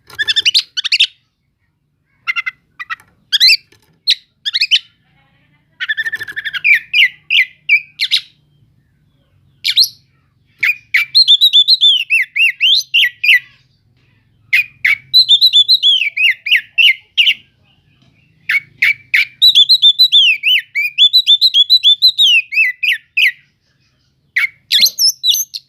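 An oriental magpie-robin (kacer) singing loudly: short whistled phrases at first, then three long runs of rapid notes sweeping up and down, each a few seconds long with brief pauses between.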